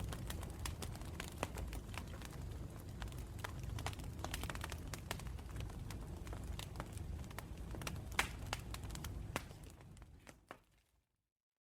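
Campfire crackling, with sharp pops over a low steady rumble of the flames; it fades out shortly before the end and leaves dead silence.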